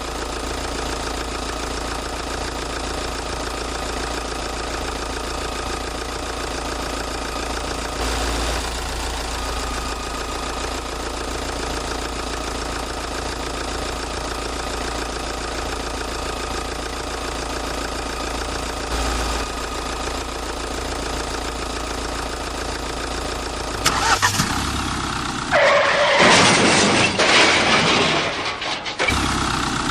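Vehicle engine running steadily at idle, an even drone with a constant whine on top. Near the end a much louder, rough noise takes over.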